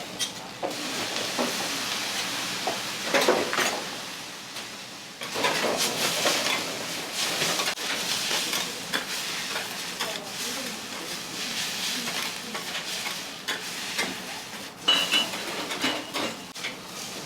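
Food sizzling on a flat iron griddle while metal spatulas scrape, chop and tap against the plate in quick, uneven strokes.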